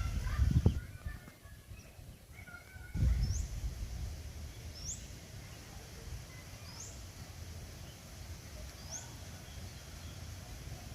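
Small bird calling: four short, high, rising chirps spaced about every one and a half to two seconds. Low rumbling bursts on the microphone come near the start and again about three seconds in.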